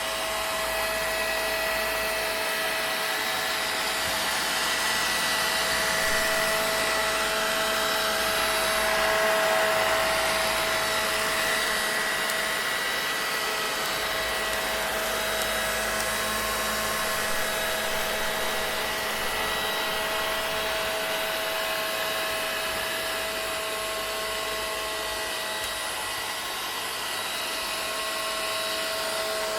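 Vacuum cleaner motor running continuously, a steady rushing hiss of air with a constant whine on top; the level swells slightly now and then but never stops.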